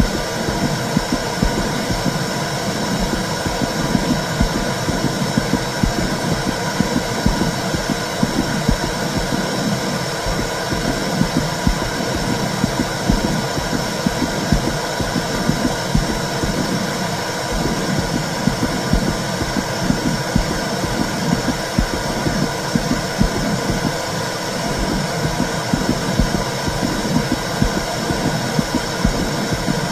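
Womb sound for calming a baby: a steady, low, whooshing rumble.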